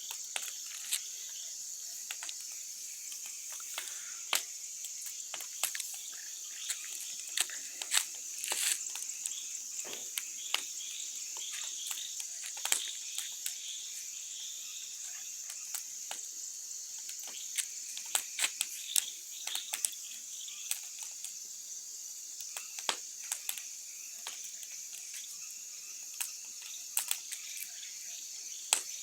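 Crickets chirping in a steady high chorus, with irregular sharp crackles and pops from a burning wood bonfire.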